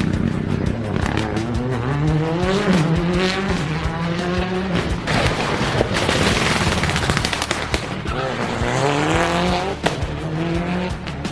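Rally car engine revving hard under acceleration. Its pitch climbs, drops at gear changes, and climbs again, with sharp pops and crackles through the run.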